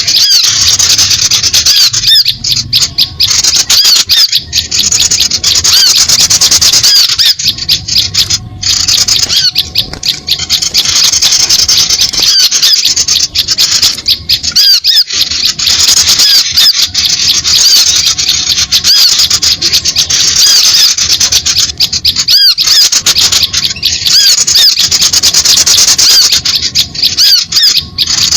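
Lure-call recording of many small songbirds chirping noisily at once: dense, rapid, high-pitched chirps and squeaks without a break.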